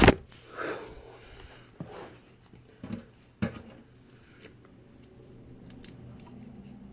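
Small plastic fidget toys being handled: a sharp click at the start, then a few scattered soft knocks and rustles during the first half, leaving only a faint steady low hum.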